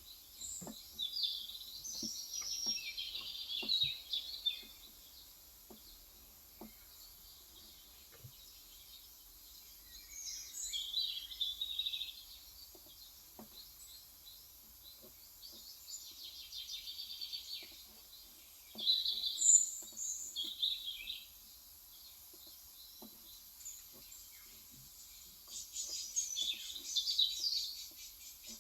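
Birds singing in about five short bouts of high chirps, over faint, scattered keystroke clicks from a Cox Endeavor electro-capacitive (Topre-style) 35 g tenkeyless keyboard.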